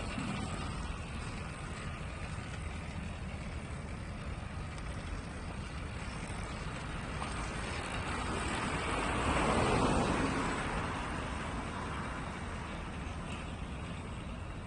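Steady low rumble of wind and traffic noise, with a vehicle passing by that grows louder to a peak about ten seconds in and then fades away.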